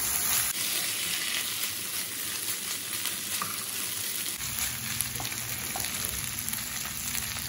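Squid, tempe and palanding beans in sambal sizzling steadily in a coated wok as a spatula stirs them, with a few soft taps of the spatula. A low hum comes in about halfway through.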